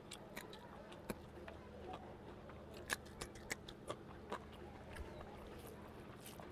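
Faint, close-miked eating: a man chewing with soft mouth clicks and smacks, with a run of sharper clicks about three to four and a half seconds in.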